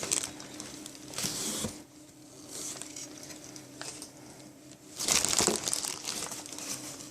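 Packaging crinkling and rustling as it is handled, in two bursts: a short one about a second in and a louder one about five seconds in.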